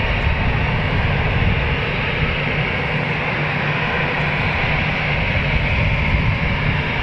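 Jet airliner engines giving a steady roar, holding level throughout with no clear rise or fall.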